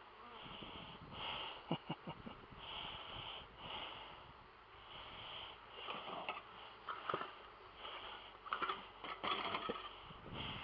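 Faint breathing that recurs about once a second, with a few scattered clicks and knocks from handling.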